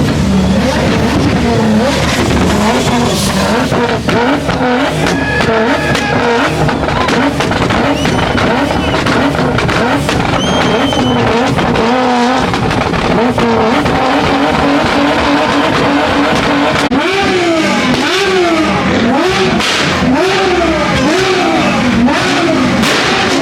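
Loud performance car engine and exhaust running at a fast idle with light revs, then from about two-thirds of the way in blipped hard over and over, each rev rising and falling about once a second.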